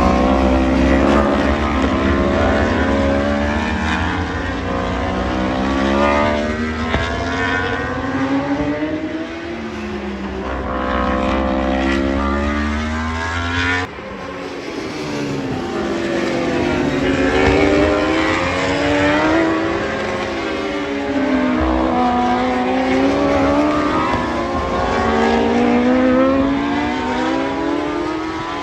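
Several racing superbikes going past at speed, one after another, their engines revving up and dropping in pitch through gear changes. The sound breaks off abruptly about fourteen seconds in and picks up again.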